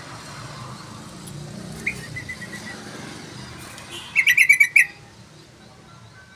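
Sooty-headed bulbul (trucukan) calling: a short run of notes about two seconds in, then a loud, quick run of notes about four seconds in, over a low background rumble.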